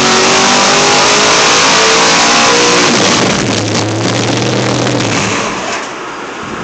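511-cubic-inch big-block Chevy V8 on an engine dyno, running hard with its revs climbing during a pull. About three seconds in the throttle closes and the engine drops back to a lower, steadier note, which falls quieter near the end.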